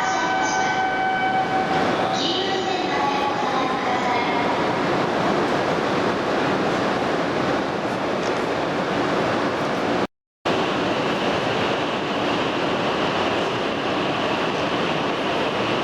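E2 series Shinkansen train running at an underground station platform, with a steady rush of rolling and air noise. Over the first few seconds its high electric whine holds several steady tones, then slides in pitch and fades into the rush. The sound cuts out briefly about ten seconds in.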